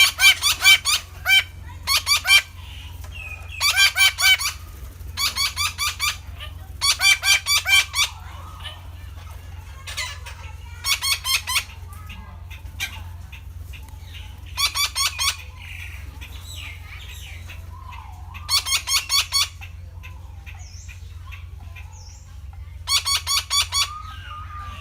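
Red-breasted parakeet (Psittacula alexandri) calling: short bursts of rapid, harsh, repeated notes every few seconds, with a steady low hum beneath.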